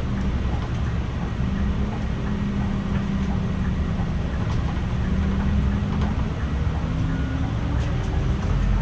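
Scania OmniExpress bus's diesel engine running under way: a steady low drone whose pitch shifts a little a couple of times.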